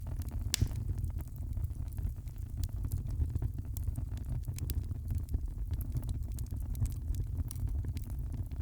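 Wood fire crackling, with frequent short sharp pops and snaps over a steady low rumble; one louder pop about half a second in.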